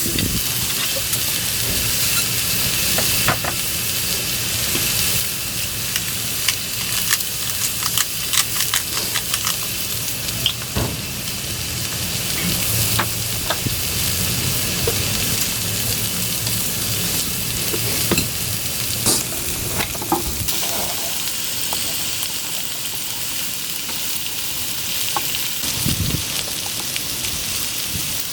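Thick beef steak sizzling as it sears over high heat, a steady hiss with frequent pops and spits of fat, thicker in the first half.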